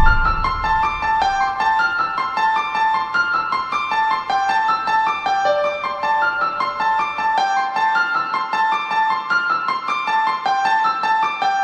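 Solo piano-like keyboard playing a quick run of repeated notes in the high-middle register, with a low sustained bass under it that drops out about seven seconds in.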